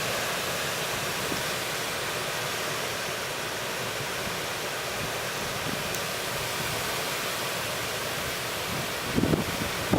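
Hurricane-force wind making a steady rushing roar, with a gust buffeting the microphone about nine seconds in.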